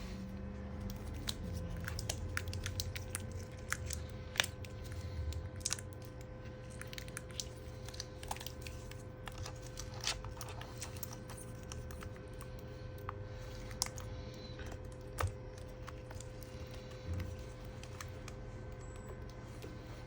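Scattered small clicks, taps and crinkles of hands handling a replacement laptop battery and its parts, with a few sharper clicks, over a faint steady hum.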